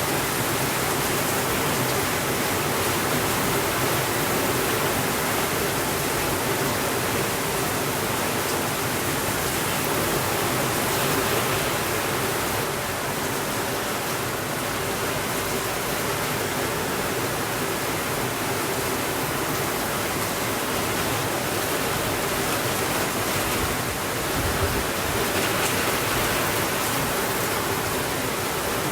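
Steady rain falling, a dense even hiss with no breaks, and one soft low thump about three-quarters of the way through.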